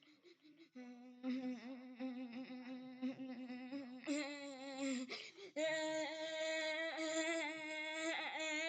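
A voice humming wordlessly, holding long notes with a slight waver. It breaks briefly about five seconds in, then goes on louder and a little higher.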